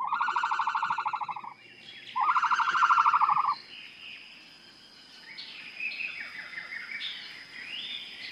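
Animal calls: two loud, rapidly pulsed trills, each a little over a second long, the second starting about two seconds in, followed by fainter, varied chirps.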